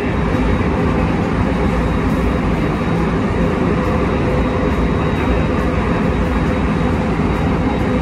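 Steady running noise of an electric commuter train heard from inside the carriage: a continuous rumble and rush of wheels on rail, with a faint high steady whine.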